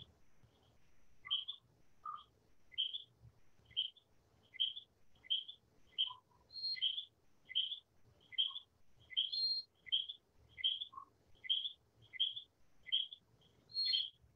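A bird chirping over and over in a steady rhythm, about one short high chirp every three-quarters of a second, with an occasional lower note.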